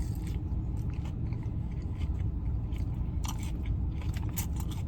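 Close-up mouth sounds of a person chewing and biting food, with scattered crisp crunches, over a steady low rumble.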